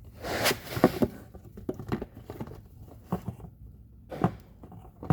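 A plastic gear-oil bottle being squeezed to force differential fluid down a hose, crinkling and crackling in irregular spurts, with a few sharp knocks.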